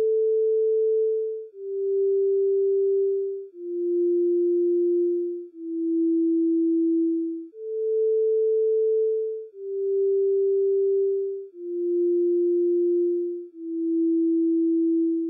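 Pure electronic sine-wave tones, each held about two seconds with soft fades between them. Four notes step down in pitch, then the same four descending notes play again.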